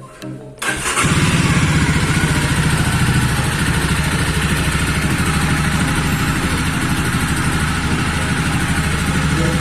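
Jawa Standard motorcycle's 293 cc single-cylinder engine idling with an even, steady beat. The sound comes in about a second in.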